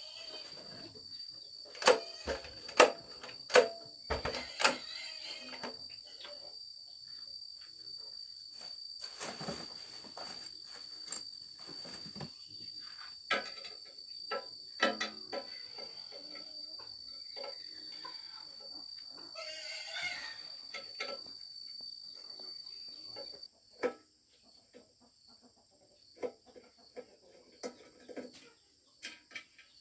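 Insects trilling in one steady high tone, which stops about three-quarters of the way through. Scattered knocks and clatter, loudest early on, sound over it.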